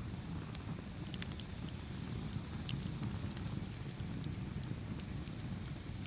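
Campfire burning with a steady low rumble and scattered sharp crackles and pops, a few of them bunched about a second in and again near the middle.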